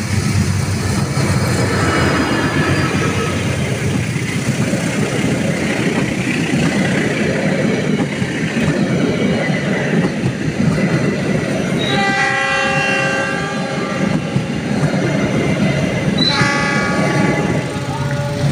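Diesel-hauled passenger train passing close by, with loud engine rumble and steel wheels running over the rail joints. The locomotive's multi-note horn then sounds twice, each blast about two seconds long, once a little past the middle and again near the end.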